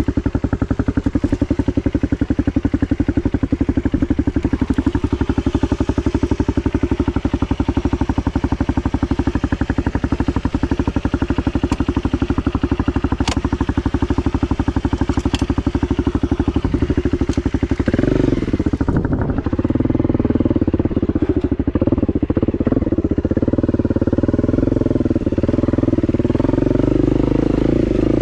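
Honda CRF250 dirt bike's single-cylinder four-stroke engine running with a steady, even beat, then about 18 seconds in it turns louder and more uneven.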